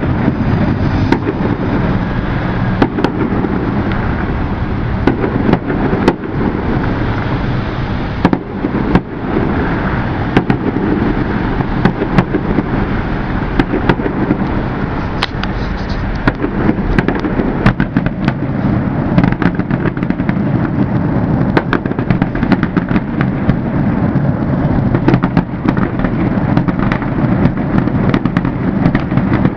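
Fireworks display going off continuously: a dense, unbroken run of booms and crackling cracks, with many sharp reports layered over a steady low rumble.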